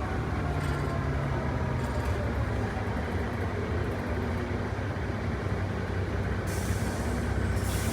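Diesel engine of an ex-STA bus running steadily, its pitch dropping about a second in. Near the end comes a burst of air hiss, like an air brake releasing.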